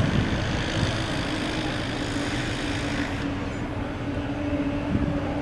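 Steady vehicle engine hum with one held tone, over a rumble; a higher hiss drops away a little after three seconds in.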